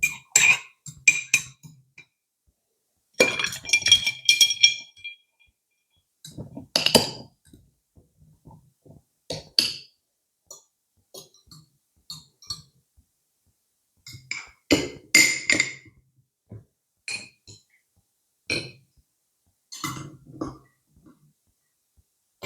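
Clinks and knocks of dishes, glassware and cutlery in short clusters separated by silence, a few of the strikes ringing briefly like struck glass.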